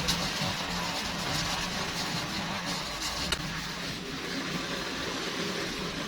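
A small engine running steadily, with one sharp click about halfway through.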